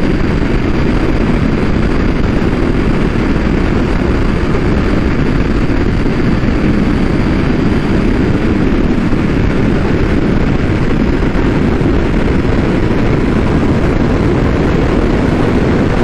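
Steady rush of wind and engine noise from a motorcycle riding at a constant speed, unchanging throughout.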